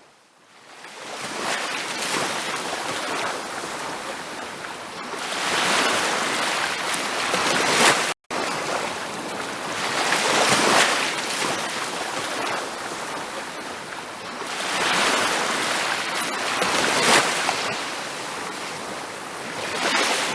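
Ocean surf washing onto a beach, a steady rushing hiss that swells and fades as each wave comes in every few seconds. The sound cuts out completely for a split second about eight seconds in.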